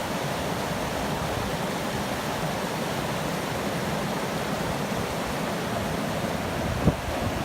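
Steady, even rushing noise with one short click near the end.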